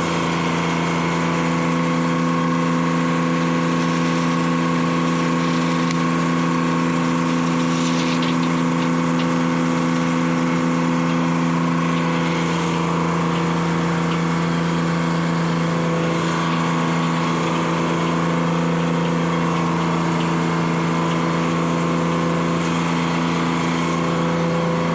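Detroit Diesel 3-71 two-stroke diesel power unit running at a steady speed under the sawmill, its tone shifting slightly about halfway through.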